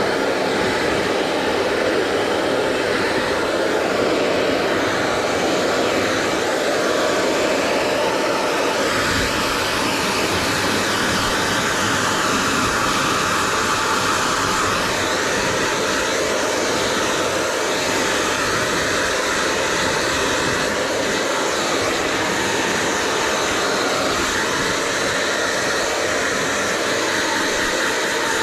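Handheld hair dryer blowing steadily: a loud, even rush of fan and air whose tone shifts slightly now and then.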